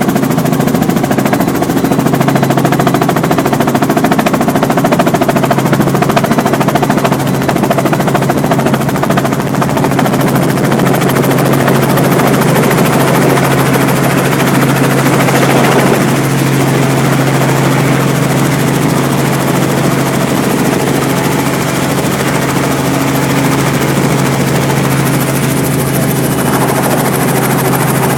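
Robinson R44 Clipper II helicopter running close by, its six-cylinder piston engine humming steadily under a fast, continuous rotor chop.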